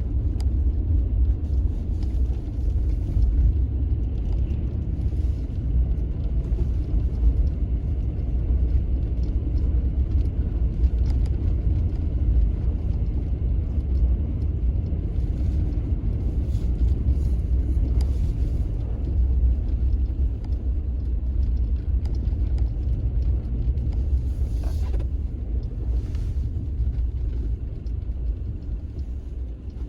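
A continuous low rumble that eases slightly near the end.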